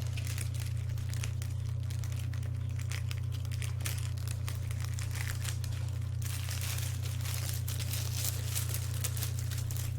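Paper rustling and crinkling as comic-book pages and their packaging are handled and turned, getting busier about six seconds in, over a steady low hum.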